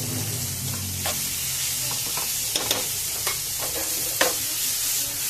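Onions, garlic and tomatoes sizzling in hot oil in a pan over high heat, stirred with a metal spoon that knocks and scrapes against the pan several times, the loudest knock about four seconds in.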